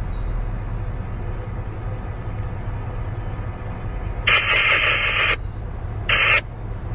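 Low, steady rumble of a passing CSX freight train's boxcars. About four seconds in, a tinny burst from a radio scanner lasting about a second, then a second short burst.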